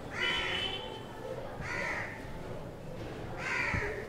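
A bird calling repeatedly: three short, harsh calls about a second and a half apart.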